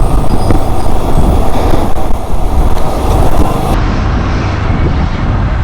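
Wind rushing over the microphone of a moving motorcycle, with engine and road noise underneath. The sound is a steady, dense low rumble. The highest hiss drops away suddenly about two-thirds of the way through.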